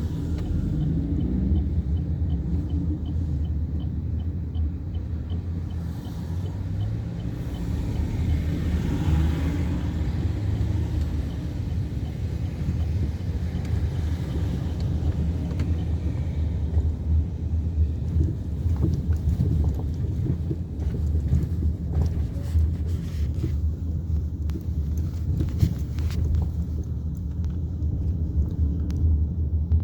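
Cabin sound of a Chevrolet Cruze 1.6 16V with a manual gearbox on the move: a steady low rumble of engine and road noise. A short run of faint, even ticking comes in the first few seconds.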